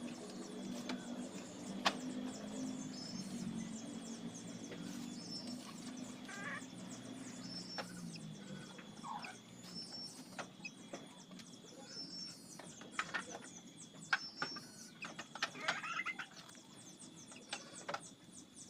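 Birds calling, with a short high call repeating every second or two and clucking like that of domestic fowl, over scattered sharp knocks. A low hum fades out in the first half.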